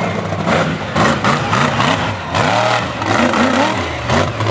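Monster truck engine revving hard, its pitch rising and falling several times in quick succession.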